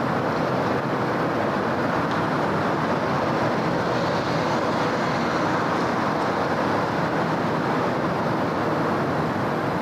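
Steady city traffic noise, a continuous wash of passing cars and road rumble with no single vehicle standing out.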